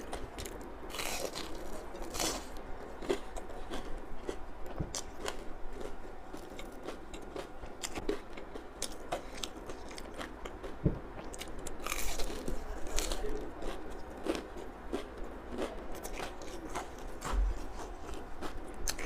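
Someone biting and chewing a crispy fried chicken cutlet with spicy seasoning, the breaded coating crunching in many short crackly bites, with louder clusters about a second in, a little after two seconds, and around twelve to thirteen seconds.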